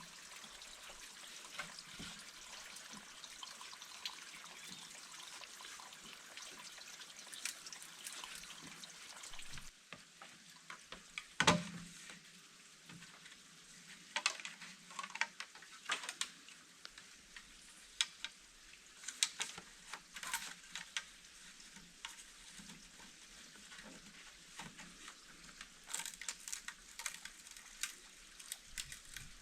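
A steady hiss with small crackles, then, after an abrupt change about ten seconds in, scattered sharp clicks and knocks, one much louder knock shortly after the change.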